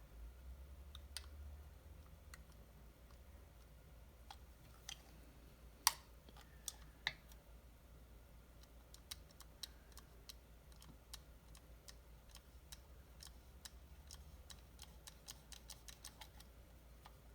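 Faint, scattered clicks and taps of small objects being handled on a workbench, with one sharper click about six seconds in and a quick run of light ticks near the end.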